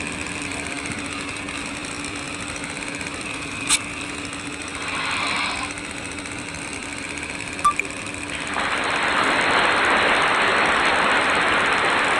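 Steady mechanical running noise with a low hum, two short clicks, and a louder steady hiss that sets in about eight and a half seconds in.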